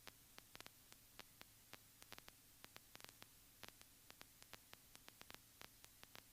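Near silence: a faint static hiss with irregular small clicks and a steady low hum, with no engine or voice heard.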